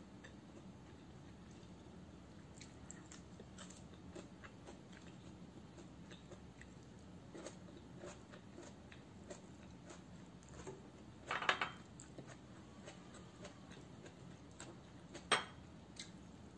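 Quiet close-up eating of fried dried fish and rice by hand: soft chewing and many small faint clicks. Two brief louder sounds stand out, a short cluster about eleven seconds in and a single sharp one near the end.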